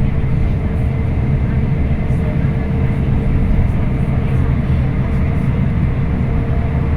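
Scania K340IB bus on the move, heard on board: a steady low engine and road rumble with a faint steady whine running through it.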